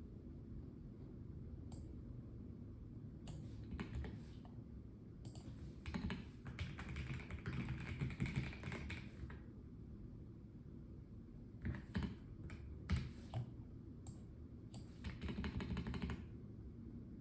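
Typing on a Melgeek Mojo84 plastic-case mechanical keyboard: bursts of rapid keystrokes with pauses between them, the longest run a few seconds in and a shorter run near the end.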